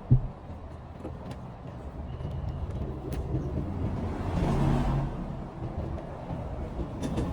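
Road traffic rumble, with a vehicle passing close and louder about four to five seconds in. There is a sharp knock right at the start.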